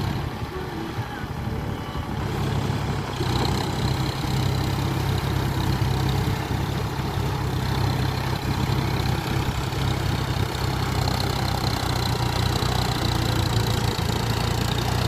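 John Deere 42 hp tractor's diesel engine running steadily while it works a rotavator through the field, growing a little louder after about two seconds.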